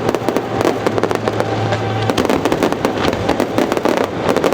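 Aerial fireworks display going off in a dense, rapid run of crackling pops and bangs. A low steady hum lies underneath and stops about two seconds in.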